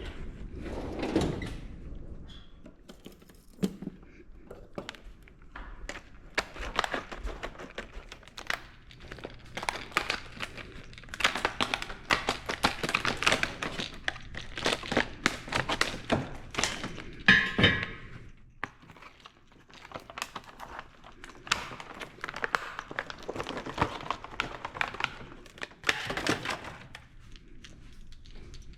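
Irregular knocks, clinks and thuds of tools and metal parts being handled during hands-on work on a car, with a short louder rasping burst about two-thirds of the way through.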